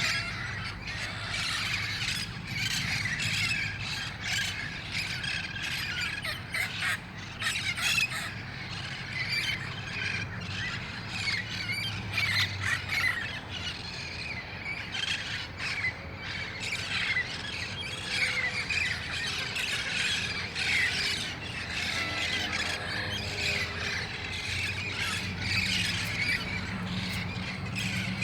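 A flock of wild red-faced parrots calling all together: a dense, unbroken din of overlapping harsh squawks and shrill screeches. This is the noisy pre-roost gathering at dusk.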